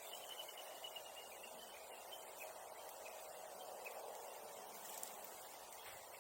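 Faint outdoor ambience with a steady low hiss. A bird's thin, high call is held for about the first two seconds, and faint scattered ticks sound throughout.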